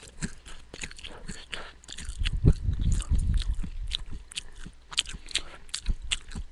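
Close-miked chewing of a mouthful of raw, sprouting beans, corn and peas: a quick run of crisp crunching clicks, with heavier bites in the middle.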